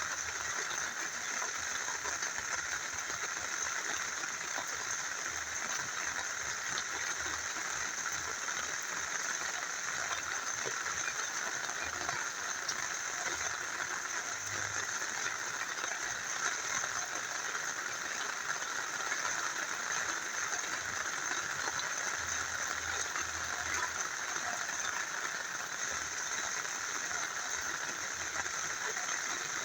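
Rain falling steadily together with a small river flowing: a continuous, even rush of water that does not change.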